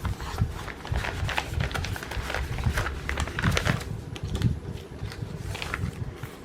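Plastic packaging crinkling and rustling, with irregular clicks and taps, as cross-stitch kit materials are handled; it dies down just before the end.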